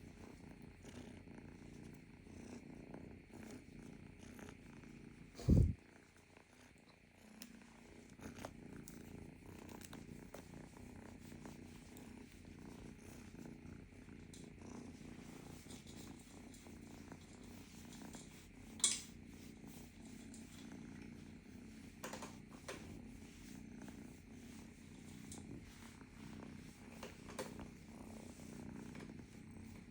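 Domestic cat purring steadily, with a loud low thump about five seconds in and a sharp click later on.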